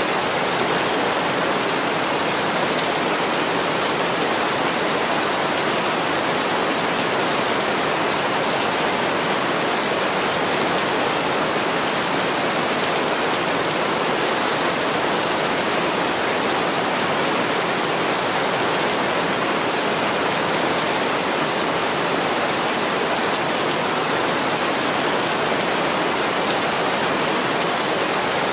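Heavy rain falling steadily on a window pane, an even, unbroken hiss.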